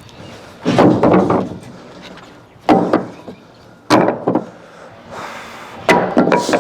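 Heavy wooden thuds and knocks from timber wall framing, four of them spaced one to two seconds apart, with a short hiss just before the last.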